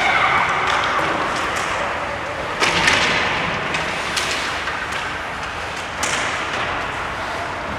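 Ice hockey game sounds in a rink: several sharp clacks and thuds of sticks, puck and boards over a steady wash of rink noise.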